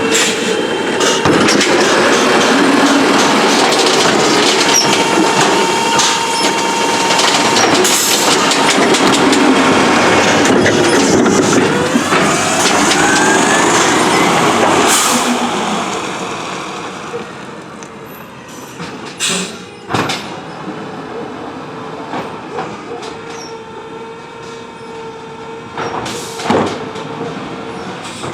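Autocar ACX CNG automated side-loader garbage truck working, its engine and hydraulics running loud with some rising whines, then fading about halfway through. Afterwards come a few sharp clanks.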